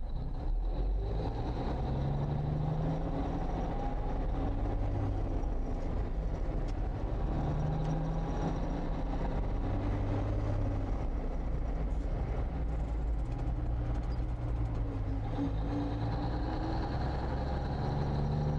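1954 Kenworth's Cummins 220 diesel engine running, its pitch rising and falling every few seconds.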